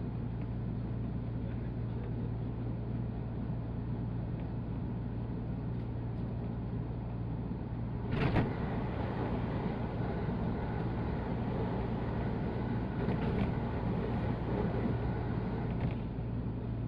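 Running noise of a 185 series electric train heard from inside the carriage: a steady low rumble and hum. There is a sudden thump about eight seconds in, after which the running noise is a little louder.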